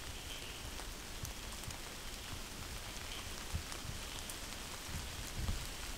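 Steady rain falling, with scattered drops ticking and a few soft low thumps in the second half.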